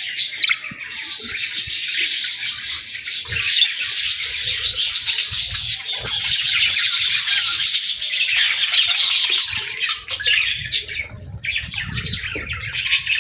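Budgerigars chattering and chirping in a dense, unbroken warble, with a brief lull about eleven seconds in.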